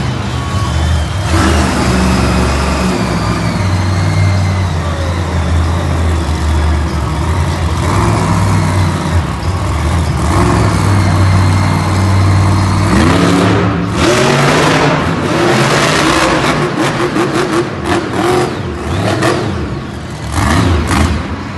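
Monster truck engine running loudly and revving. After about thirteen seconds the steady engine note gives way to a choppier stretch of short revs and many sharp cracks.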